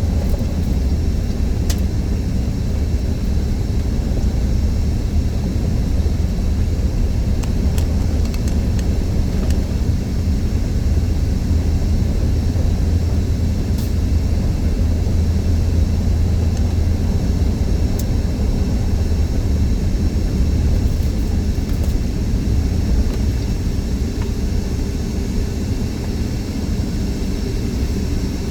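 Steady low drone of a car driving: engine and road noise, with a few faint clicks.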